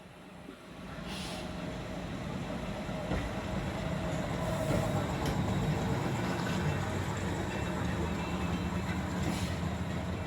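Waggon und Maschinenbau diesel railbus running along the line: a steady low engine rumble with rail noise. It grows louder over the first couple of seconds, then holds steady.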